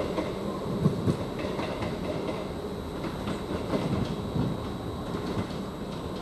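East Midlands Railway Class 158 diesel multiple unit, a steady mechanical rumble with scattered low knocks.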